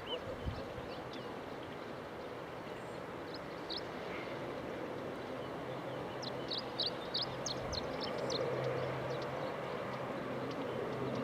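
Distant aircraft engines running as a steady low hum and rush that grows slowly louder. Small birds chirp in quick bursts over it, most densely a little past the middle.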